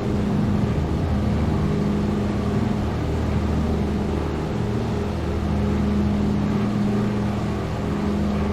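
Douglas DC-3's twin radial piston engines droning steadily in flight, a low hum whose tone swells and fades every second or two over a broad rush of noise.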